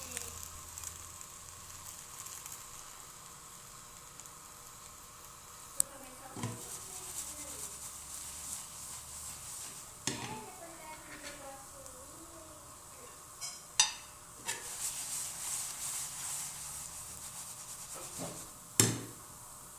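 Crepe batter sizzling in a lightly oiled frying pan, a steady hiss, with a few sharp knocks of a utensil against the pan, the loudest near the end.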